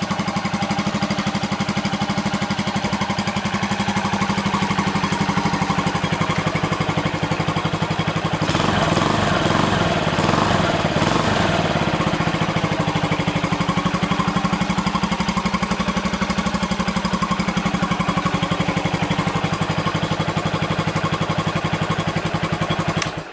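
Honda FTR single-cylinder motorcycle engine idling with a steady, even beat. It runs louder for a few seconds about eight to twelve seconds in, then cuts off suddenly at the very end as the engine is switched off.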